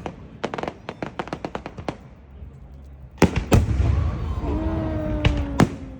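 Fireworks going off: a quick run of sharp crackling pops in the first two seconds, then two loud bangs about three seconds in, with rumbling and more bangs after. A long, slowly falling tone sounds through the second half.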